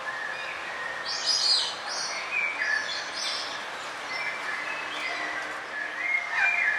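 Several songbirds chirping and singing, short whistled phrases and chirps overlapping over a steady background hiss of a forest.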